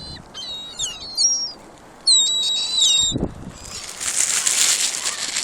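A flock of gulls being fed, giving short high-pitched calls in two quick runs in the first three seconds. A dull thump follows a little after three seconds, then a steady rushing hiss from about four seconds in.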